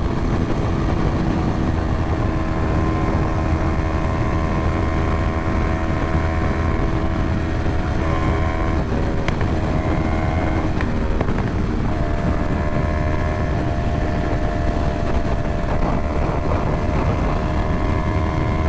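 Motorcycle engine running steadily at cruising speed, with wind rumble on the rider's microphone; the engine note breaks and shifts a couple of times around ten seconds in.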